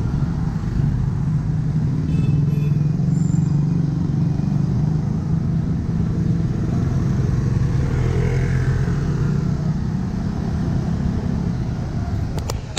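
Busy street traffic dominated by motorbike engines, with a steady engine drone close by. A couple of sharp clicks come near the end.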